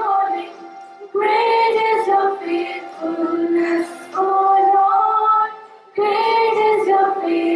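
Young female voices singing a hymn together in long held phrases, with short breaks for breath about a second in and near the end.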